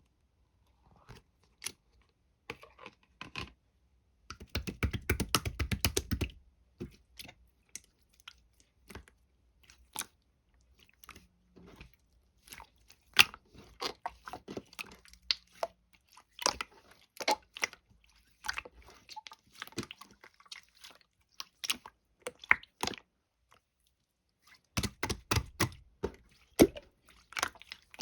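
White slime being squished and pressed by hand close to the microphone, giving irregular crackling pops and clicks. Dense runs of rapid pops come about four seconds in and again near the end.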